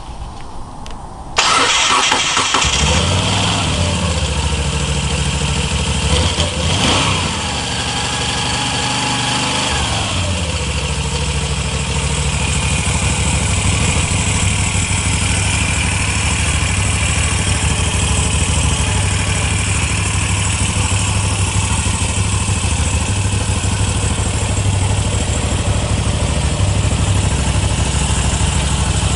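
Moto Guzzi V7 III 750's air-cooled 744 cc transverse V-twin being started. It cranks on the starter about a second in and catches a moment later. It revs briefly and drops back, then idles steadily.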